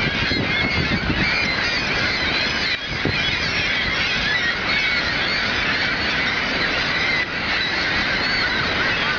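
A crowded colony of nesting gulls calling nonstop, many squealing calls overlapping at once, over the steady rush of the waterfall.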